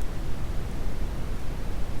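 Steady brown noise: an even, deep hiss, heaviest in the low end.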